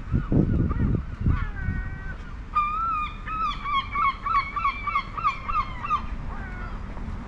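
Birds calling: a rapid run of short, honking calls, several a second, busiest for about three seconds in the middle. There are low thumps near the start.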